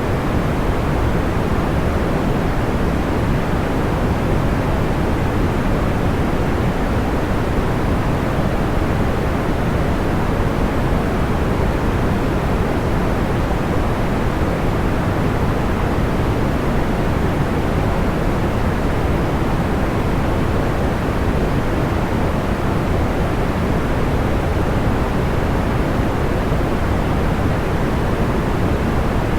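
A steady, even rush of soft background noise, like pink noise, fuller at the low end and dull at the top, with no distinct crackles or pops.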